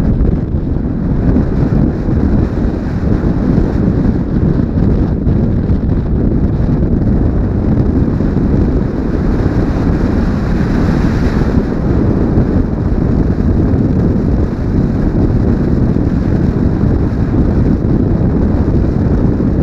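Wind rushing and buffeting over a helmet-mounted GoPro on a moving motorcycle, a loud, steady low rumble that covers the engine and road noise. The rush grows briefly brighter around the middle.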